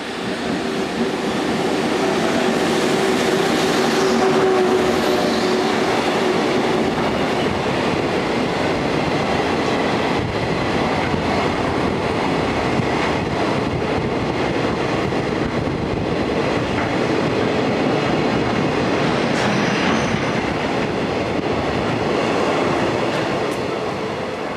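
Container freight train passing at speed behind an EF81 AC/DC electric locomotive: the locomotive goes by with a steady hum that fades after the first several seconds, then the long string of container wagons rumbles and clatters over the rails. The sound swells about a second in, holds steady, and falls away near the end as the last wagon passes.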